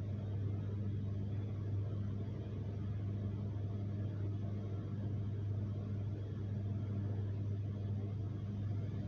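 Steady low hum with a faint even hiss over it, unchanging throughout; no animal call.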